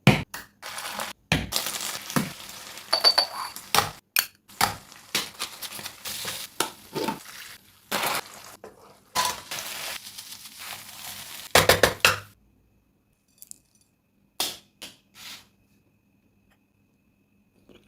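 Stir-frying dragon chicken: a utensil repeatedly clattering and scraping in a pan over sizzling, for about twelve seconds, then just a few scattered clinks.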